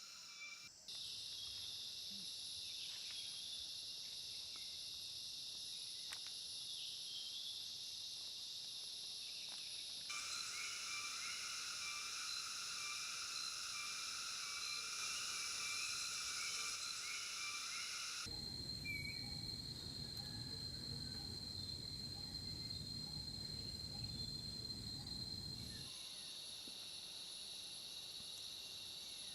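Steady, continuous shrill drone of an insect chorus, cicadas or crickets, with no clear bird song. The chorus changes character abruptly several times. Between about 18 and 26 seconds a low rumble sits under a single steady high tone.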